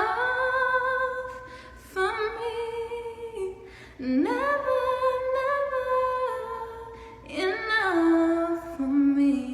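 A woman singing unaccompanied, holding long notes and humming wordless phrases, several sustained notes with gaps between them.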